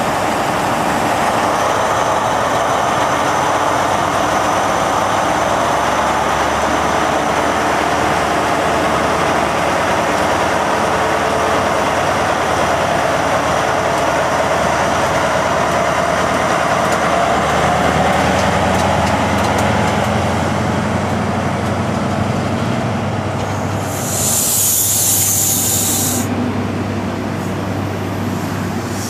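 Diesel train running at a station platform: steady engine hum and rumble. A short hiss of compressed air comes near the end.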